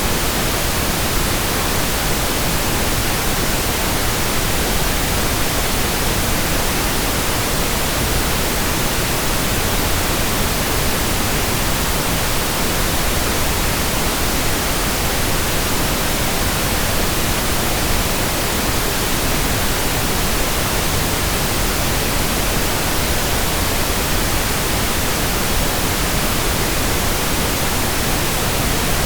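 Steady, unchanging pink noise: an even hiss spread across all pitches, with no events or variation.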